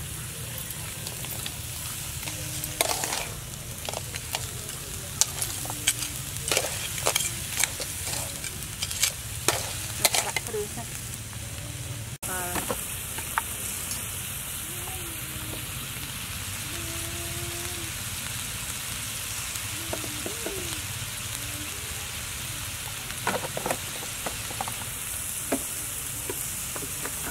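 Crabs sizzling in a wok, a steady hiss, with scattered sharp clinks of spoons and jars being handled.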